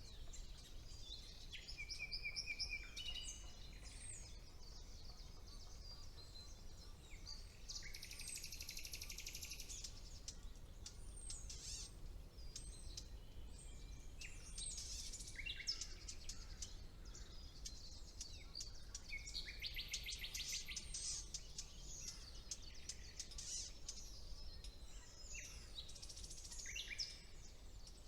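Spring woodland birdsong, with a common nightingale among the singers: varied whistled phrases, short held notes and fast rattling trills come one after another from several birds. A steady low rumble runs underneath.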